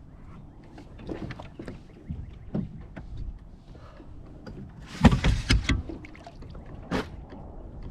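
Irregular knocks and clicks of gear handled on a fishing kayak, with a louder cluster of knocking and rustle about five seconds in and a sharp tap near the end.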